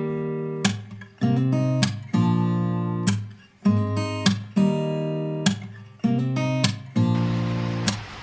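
Acoustic guitar music: strummed chords, each struck sharply and left to ring and fade, about one a second. A steady hiss comes in near the end.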